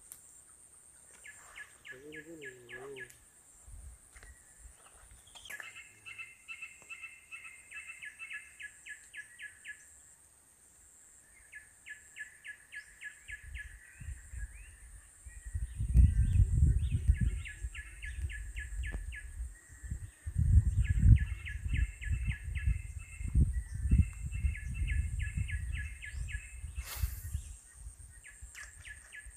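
A bird's trills repeat throughout: runs of rapid, evenly spaced chirps a few seconds long, over a steady high insect-like whine. In the second half, loud irregular low thumps and rubbing from the phone being handled on the repair mat cover them.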